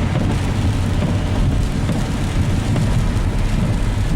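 Car driving in the rain, heard from inside the cabin with the windows up: a steady low road rumble under a lighter hiss of rain and wet road.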